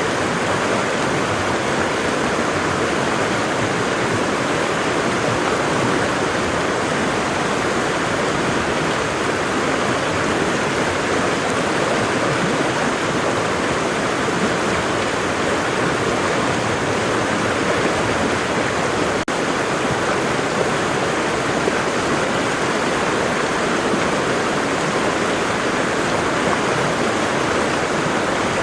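Waterfall: water falling and rushing in a steady, even roar, with a split-second dropout about two-thirds of the way in.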